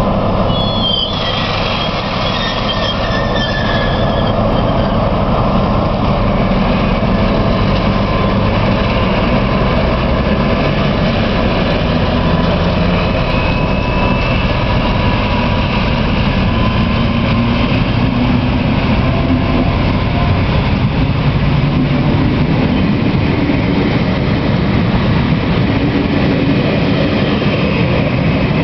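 Czech Railways diesel train pulling out of the station: the diesel engine runs loud and steady, its pitch slowly rising as the train gathers speed, with a few high-pitched squeals in the first few seconds.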